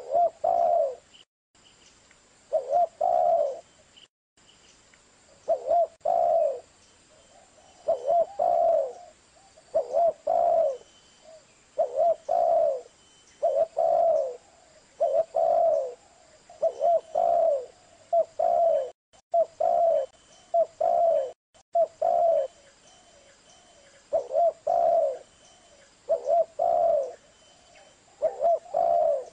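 Zebra dove (perkutut) cooing: a long run of short, low coo phrases, each of a few quick notes, repeated about every one and a half to two seconds.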